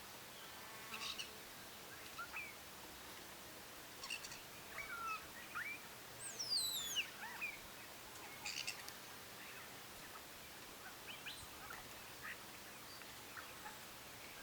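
Birds calling: scattered short chirps and whistles, with a quick falling whistled sweep about halfway through, over a faint steady hiss.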